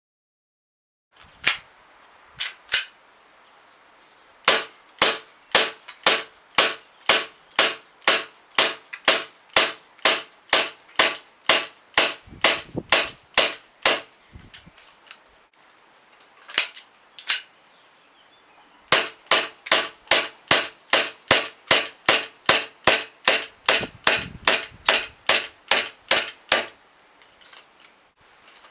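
VFC Glock 17 SAI gas blowback airsoft pistol firing. A few single shots come first, then a long string of rapid semi-automatic shots at about three a second, a pause broken by two shots, and another long rapid string.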